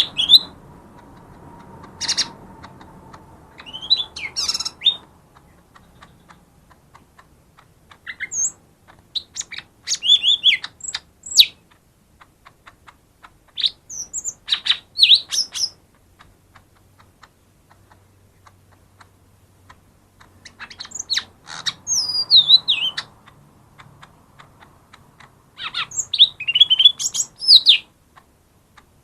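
Lesser green leafbird (cucak ijo mini) singing: bursts of quick, varied, high whistled notes, about five phrases separated by pauses of a few seconds.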